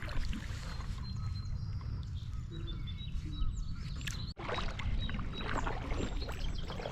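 Kayak paddle strokes dipping and splashing in the river water, over a steady low rumble, with a few faint bird chirps. The sound drops out for an instant about four seconds in.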